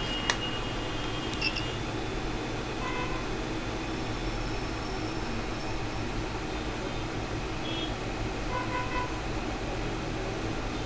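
Steady low hum and hiss of running equipment, with one sharp click about a third of a second in and a few faint short beeps.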